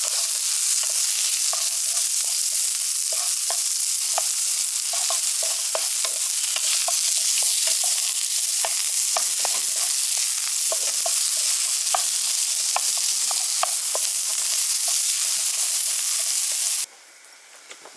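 Food frying: a steady sizzle with many small spits and pops, cutting off suddenly near the end.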